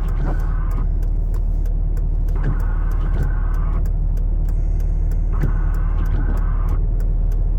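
Pickup truck engine running, heard from inside the cab as a steady low hum. A higher sound comes and goes about every two and a half seconds, along with regular faint clicks.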